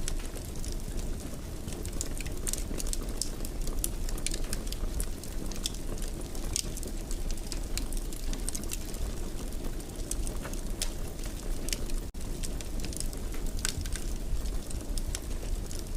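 Wood fire crackling in a fireplace: a steady low rush of flames with frequent sharp pops and snaps, and a momentary dropout about twelve seconds in.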